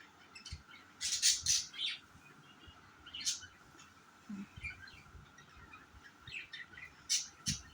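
Pet budgerigars chirping: short clusters of high, sharp chirps that come again and again, loudest about a second in and again near the end.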